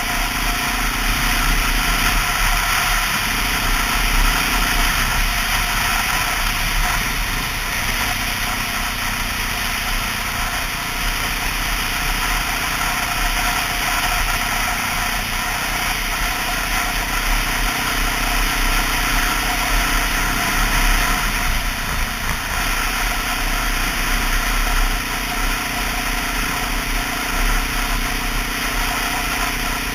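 Honda XR650L's air-cooled single-cylinder four-stroke engine running steadily under a heavy, even rush of noise, with small shifts in its low note every few seconds.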